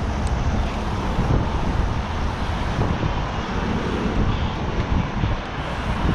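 Steady wind rush over the microphone and road noise while riding along a street, with car traffic in the background.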